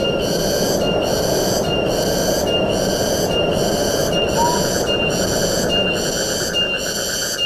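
Wind blowing through forest trees, a steady rushing noise. Over it, a high chirring call repeats a little more than once a second, and a short rising whistle comes once near the middle.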